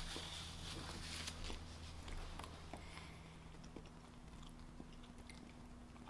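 Faint chewing of a soft bite of butterscotch cupcake, with small scattered mouth clicks over a steady low hum.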